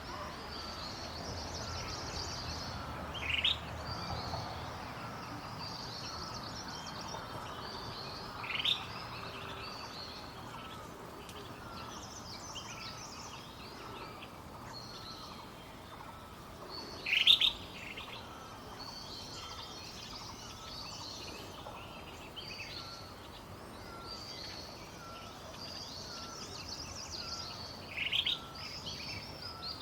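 Crested finchbill giving a short, loud rising call four times, spaced several seconds apart. Behind it other birds sing steadily, with a faint lower note repeated about once a second.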